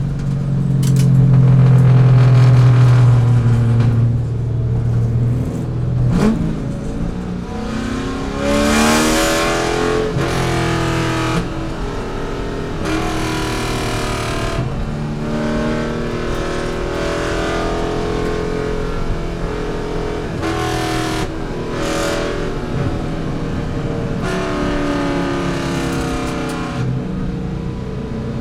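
C5 Corvette's V8 racing engine under load. It holds a steady drone for about the first six seconds, then revs up and drops back again and again as the car accelerates through the gears and slows for corners.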